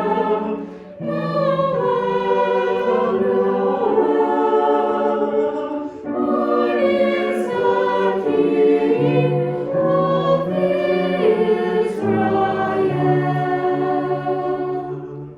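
Choir singing a hymn in harmony, with long held notes and brief pauses for breath, dying away at the end.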